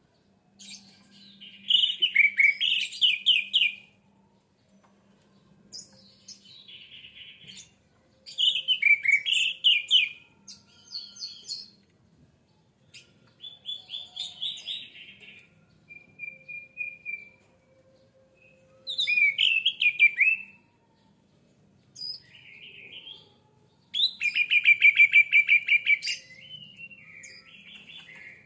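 Orange-headed thrush (anis merah) singing loud, rapid phrases of quick varied notes, each phrase a second or two long and separated by short pauses.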